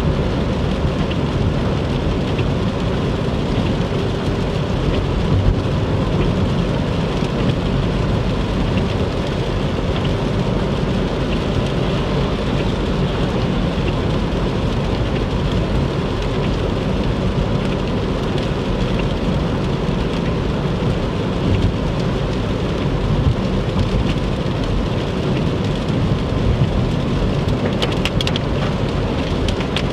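Heavy rain hitting a car driving on the interstate, over a steady low rumble of road and tyre noise.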